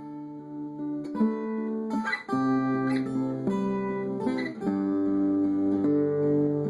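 Acoustic guitar strumming chords, changing chord every second or so, as the instrumental lead-in to a song.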